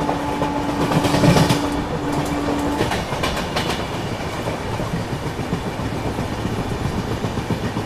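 Mahanagri Express passenger train running on the track, its wheels clattering over the rail joints in a steady rumble. A steady single-pitched tone sounds for about the first three seconds, then a few sharp clicks.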